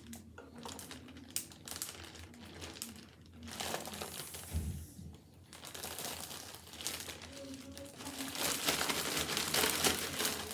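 A bag crinkling as it is handled while powdered sugar goes in with the coated cereal. Near the end it crackles more loudly as the bag is shaken to coat the mix.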